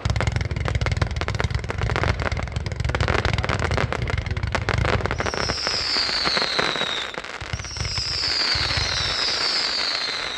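A 220-shot fireworks cake firing: rapid shots and crackle, joined about halfway by several high whistles that fall in pitch, some overlapping.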